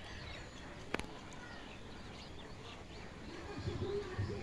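Birds chirping in the background over a low outdoor rumble, with a single sharp click about a second in.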